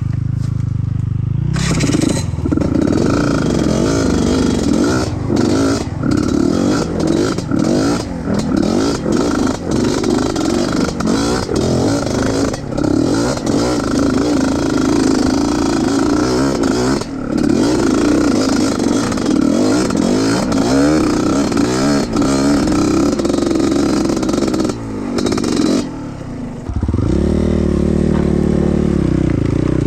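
Trail motorcycle engine working hard off-road, its pitch rising and falling as it is throttled, with frequent clattering and scraping knocks from about a second and a half in. Near the end the clatter stops and the engine holds a steadier note.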